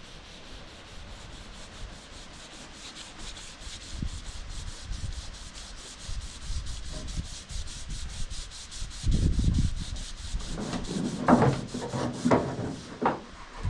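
Air sander running steadily on a truck's body panels, a continuous sanding rasp with a fast, even buzz. In the last few seconds it is overlaid by louder thumps and short voice-like sounds.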